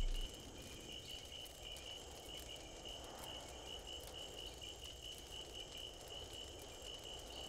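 Faint crickets chirping: a steady, high, evenly pulsing trill over a low background hiss.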